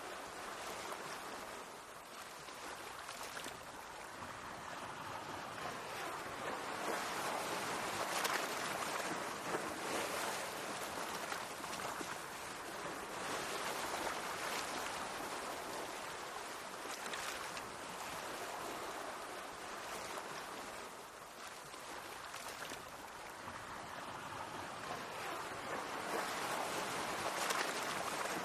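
Mediterranean Sea waves washing in: a continuous rush of water that swells and ebbs, rising to its loudest about a third of the way in and again near the end.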